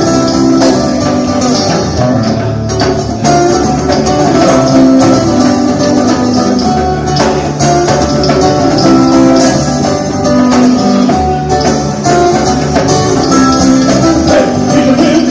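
Jam band playing live, an instrumental stretch without singing: sustained guitar notes over a steady bass line and drum beat.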